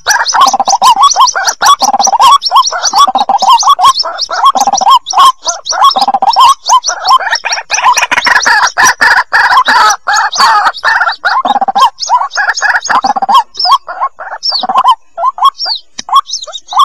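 White-breasted waterhen (ruak-ruak) chicks calling: a dense, rapid chatter of short cheeping notes, loud and crackly, thinning to sparser notes near the end. This is a recording played as a lure for trapping the birds.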